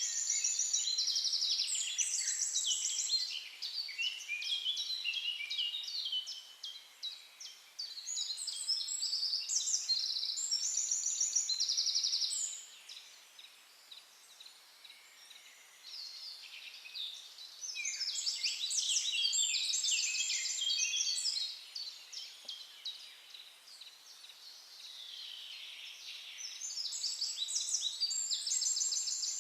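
A songbird singing long phrases of fast, varied chirps and trills, pausing twice for a few seconds before starting again.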